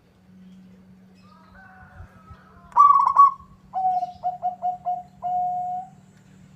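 Zebra dove cooing: a quick stuttering burst of notes about three seconds in, then a run of short coos that ends on one longer held note. A fainter call comes just before, and a low steady hum lies underneath.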